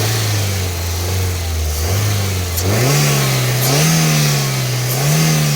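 Ford Figo car engine running, held steady at first, then revving up about halfway through and blipping higher twice more near the end, each time easing back.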